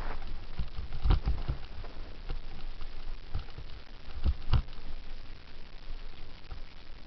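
Bicycle coasting downhill, heard through a helmet camera: low wind and road rumble with a few sharp knocks and rattles as it rolls over bumps, the loudest about a second in and twice around four and a half seconds in.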